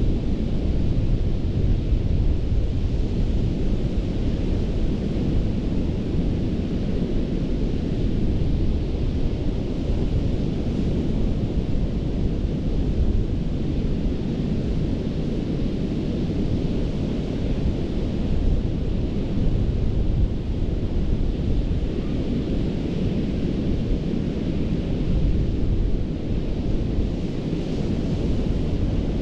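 Ocean surf washing onto a sandy beach: a continuous rushing with a deep rumble underneath, the hiss swelling and easing as waves come in.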